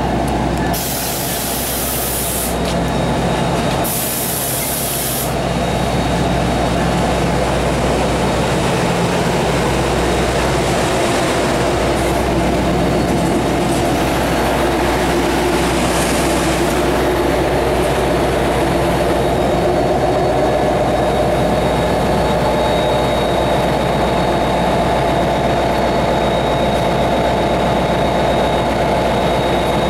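New Jersey Transit diesel-hauled passenger train moving past close by, its locomotive engine running steadily with a continuous hum and whine. Near the start there are two short bursts of hiss about three seconds apart.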